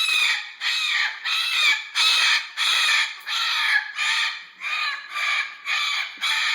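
Moluccan (salmon-crested) cockatoo screaming, harsh loud calls repeated about twice a second without a break: an agitated, jealous outburst at the kitten being held.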